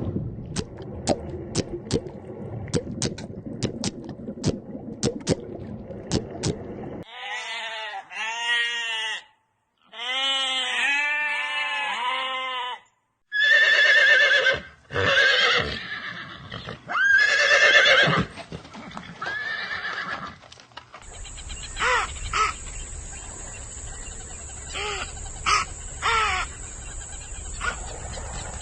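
A run of separate animal-call recordings, horse whinnies and neighs among them, each a few seconds long with short breaks between.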